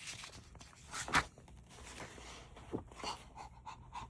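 Quick, even panting like a dog's, about three to four breaths a second, starting about three seconds in, after a few short rustles.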